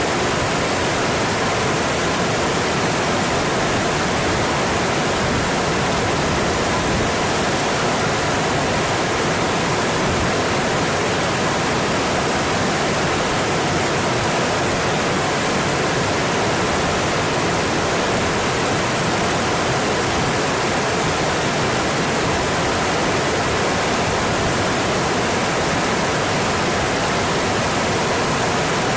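Mountain stream rushing over its bed: a steady, even flow of water with no breaks.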